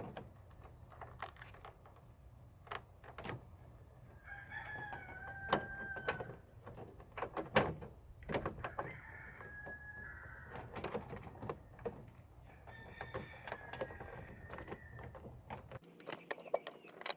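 A rooster crowing three times, each crow lasting about two seconds, amid scattered sharp clicks and knocks.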